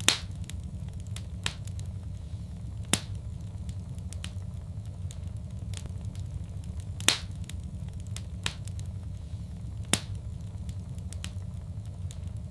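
Wood fire in a fireplace crackling: a steady low rumble of burning broken by about half a dozen sharp pops a second or more apart, the loudest at the start and about 3, 7 and 10 seconds in.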